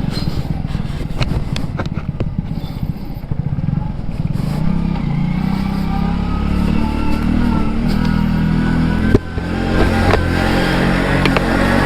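Motorcycle engine running while riding, with steady road and wind noise. Scattered knocks and scrapes come from the microphone being adjusted.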